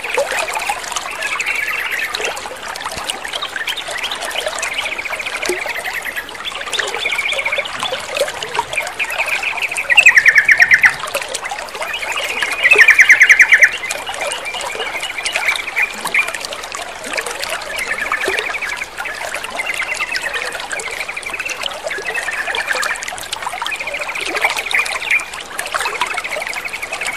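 Yellow-vented bulbuls (trucukan) chattering and calling repeatedly in short, rapid phrases over steadily trickling water. Two bursts of fast notes, about ten and thirteen seconds in, are much louder than the rest.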